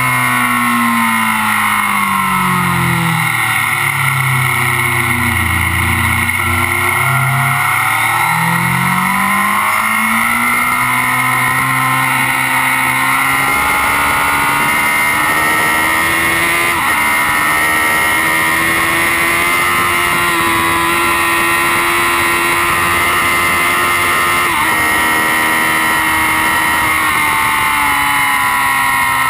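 Kawasaki Z750's inline-four engine at speed on track, heard close up over heavy wind noise. The revs fall about four seconds in and climb back up by about ten seconds, then from about thirteen seconds hold high and steady with brief wavers in pitch near 17 and 24 seconds.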